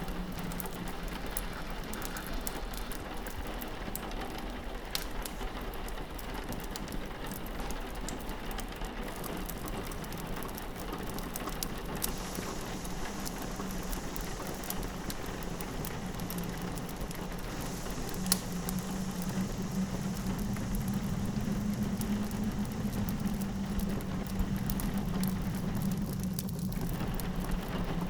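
Rain pattering on a window while a fireplace crackles with scattered small pops, over a steady low wind rumble that grows louder in the second half. One sharper crack comes about two-thirds of the way through.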